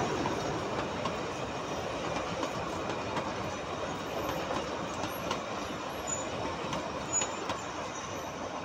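Narrow-gauge passenger coaches rolling past on the rails behind a TU10 diesel locomotive, a steady rumble of wheels with a few faint clicks, slowly fading as the train moves away.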